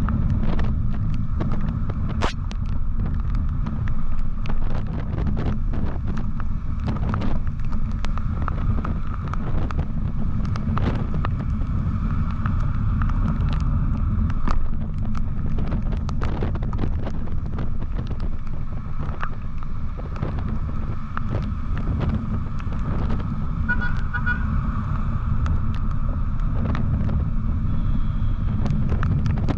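Motorcycle riding through traffic, with wind rushing over the microphone and steady road and engine noise. A vehicle horn sounds briefly about two-thirds of the way in.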